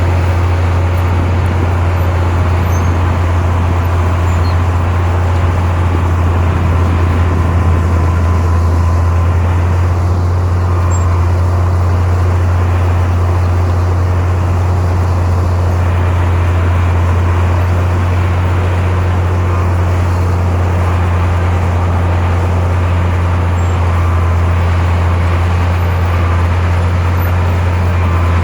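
Heavy diesel earthmoving machinery running steadily, a loud constant low engine drone that holds its pitch throughout.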